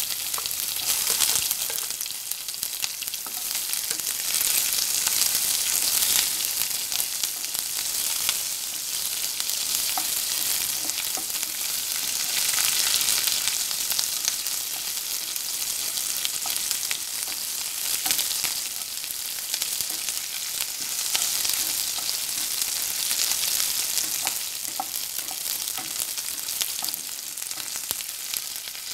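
Sliced onions sizzling in hot oil in a nonstick wok, a steady high hiss, stirred with a spatula that scrapes and taps now and then.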